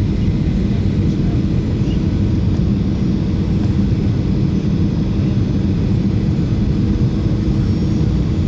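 Steady cabin noise inside a Boeing 737-800 in flight: a constant low rumble with an even drone from its CFM56 turbofan engines and the airflow, heard from a window seat.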